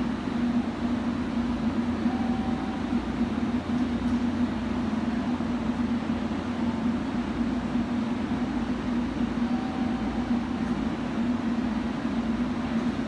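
Steady low hum of an electric train, with no clear changes.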